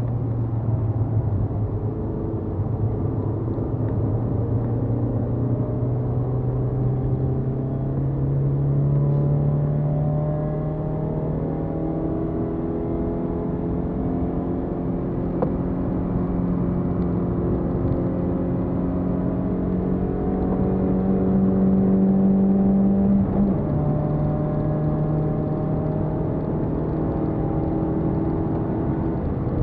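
BMW E30 318is's four-cylinder engine heard from inside the car under hard acceleration, its pitch climbing slowly through one gear. About three-quarters of the way through the pitch drops abruptly with an upshift, then climbs again as the car keeps gaining speed, over steady road and wind noise.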